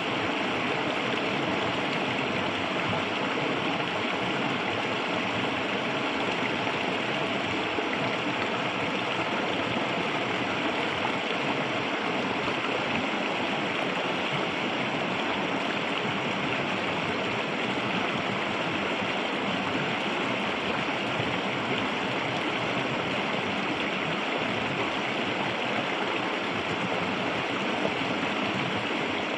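Clear, shallow river water flowing steadily over stones, an even rushing and gurgling.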